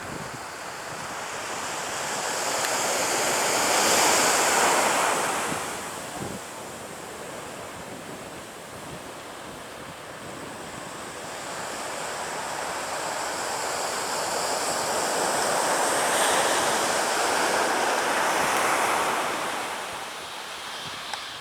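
Surf on a beach: two waves swell up and wash in, the first peaking about four seconds in and the second, longer one later, with wind noise on the microphone.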